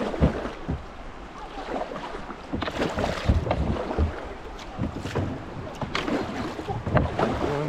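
Kayak paddle strokes splashing and dipping in a shallow creek, with running water and the odd knock of paddle or hull.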